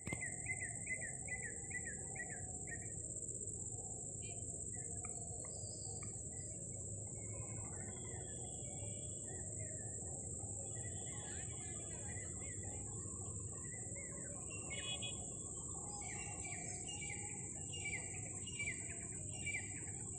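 Evening nature ambience: a steady high-pitched insect drone throughout, with birds chirping over it, a quick series of repeated chirps at the start and again in the last few seconds, and scattered other calls between. A low background rumble sits beneath.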